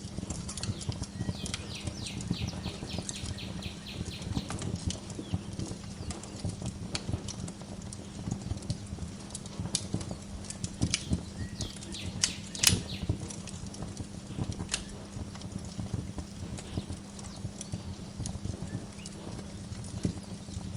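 Wood fire crackling and popping in a fireplace, with one sharp louder pop about twelve seconds in, over a low steady hum. A bird gives a quick run of high chirps about two seconds in, and a few more chirps near the end.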